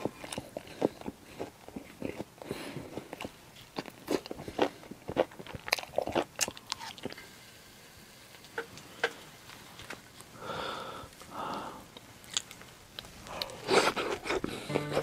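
Close-miked chewing and biting of grilled pork neck steak: irregular wet clicks and crunchy bites, quieter for a few seconds in the middle, with a dense flurry near the end.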